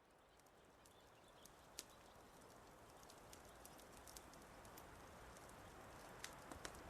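Wood fire crackling, with scattered sharp pops and ticks over a soft, steady hiss that fades in from silence.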